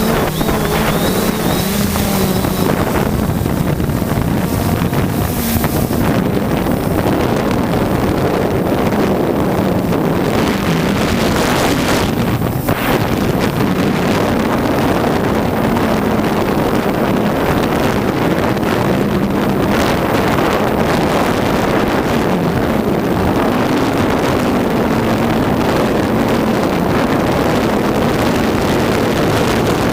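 3DR Solo quadcopter's motors and propellers humming, their pitch wavering as they fight the gusts, under heavy wind buffeting on the microphone.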